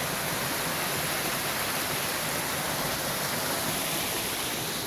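Rushing water of a jungle stream and its waterfalls, a steady even hiss.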